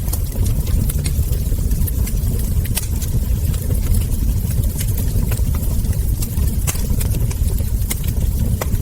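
Wood fire crackling, with frequent small sharp pops and snaps at irregular intervals over a steady low rumble.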